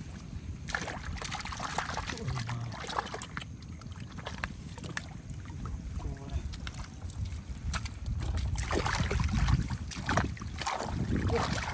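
Water splashing and sloshing in irregular bursts over a steady low wind rumble on the microphone, busier and louder from about eight seconds in.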